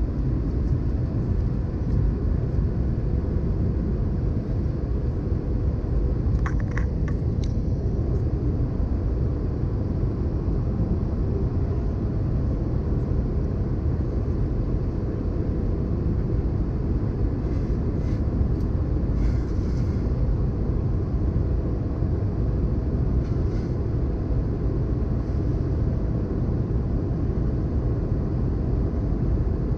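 Steady low rumble of an Airbus A320's cabin noise, engines and airflow, heard from a window seat, with no change in level; a few faint, brief high clinks sound around six seconds in and again near the middle.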